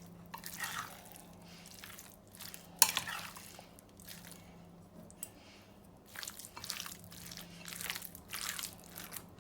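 Raw chicken strips in a yogurt and tomato-purée marinade being stirred in a bowl, in irregular bursts, with one sharp knock against the bowl about three seconds in. A faint steady low hum runs underneath.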